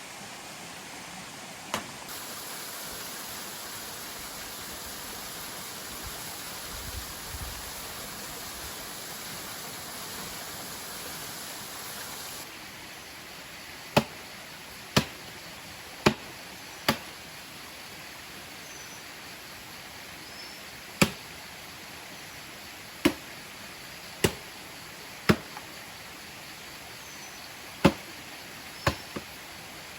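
Sharp single chopping strokes, about a second apart in short runs, over the steady hiss of a waterfall and forest insects.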